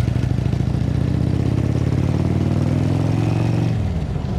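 Indian V-twin motorcycle with Freedom aftermarket exhaust and stage 2 cams, running under way; the exhaust note climbs slightly in pitch, dips briefly about four seconds in, then picks back up.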